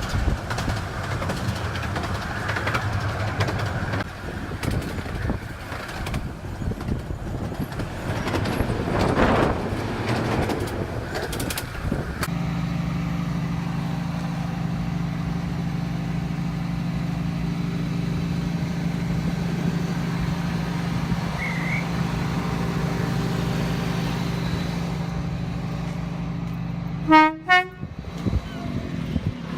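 Miniature passenger train running, with a rumbling ride and clicks from wheels on track for about the first twelve seconds. Then an abrupt change to a steady pitched hum. Near the end the train gives one short, loud toot.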